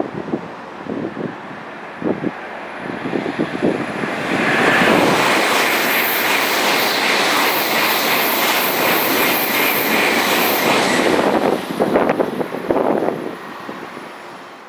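A Tokaido Shinkansen bullet train passing at high speed close by: a rushing of air and wheels that builds over the first few seconds, stays loud with a high hiss for about six seconds, then fades away.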